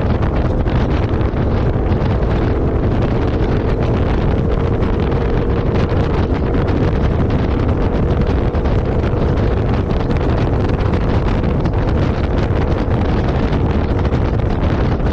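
Heavy wind buffeting the microphone over a vehicle running steadily, with a faint steady hum.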